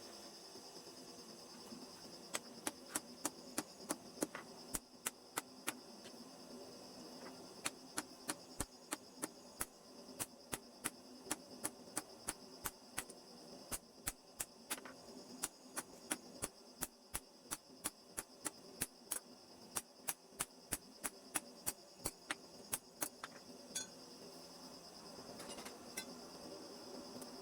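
Light hammer taps on metal, about three a second, stopping a few seconds before the end, over a steady high-pitched whine.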